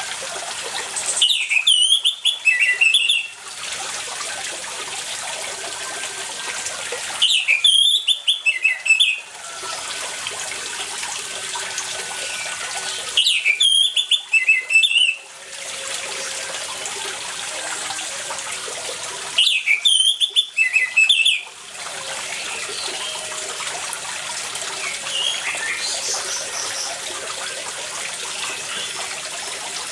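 Orange-headed thrush singing in four loud phrases of about two seconds each, roughly every six seconds, alternating with the steady sound of running water. Between the phrases, faint chirps from other birds sit over the water.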